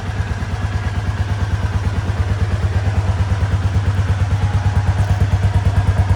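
Kawasaki Estrella RS's air-cooled single-cylinder four-stroke engine idling with an even, rapid beat.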